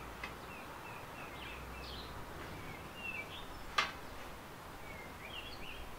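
Small birds chirping and twittering in the background, in short rising and falling calls, with one sharp click about four seconds in.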